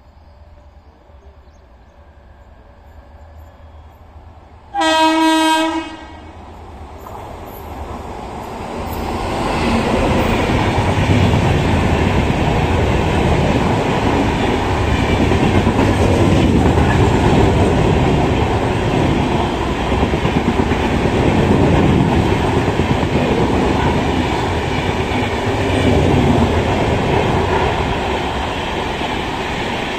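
A locomotive horn sounds one blast of about a second. Then an express train of red LHB passenger coaches runs past at speed, a loud steady rumble of wheels on the rails with clattering over the rail joints that swells and eases as the bogies go by.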